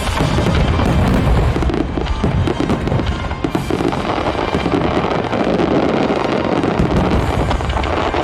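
Aerial fireworks bursting in a dense run, a steady mass of crackling and deep booms, with music playing along.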